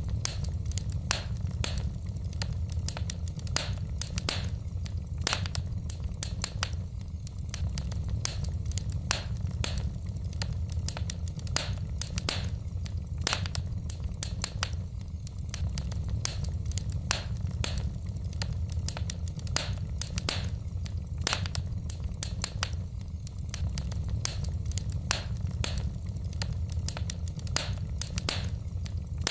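Wood fire burning in a fireplace: the logs crackle with frequent, irregular sharp pops and snaps, several a second, over a steady low rumble.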